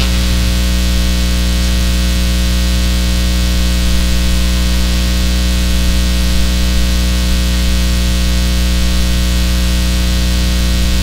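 Steady electrical buzz and hiss in the audio feed: mains hum with a long stack of harmonics, unchanging throughout.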